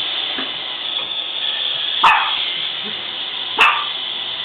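A dog gives two short, sharp barks about a second and a half apart, over the steady hum of a Roomba robot vacuum running.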